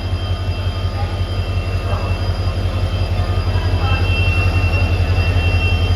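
Railway locomotive running close by with a low throbbing hum and a steady high whine, growing gradually louder as it approaches.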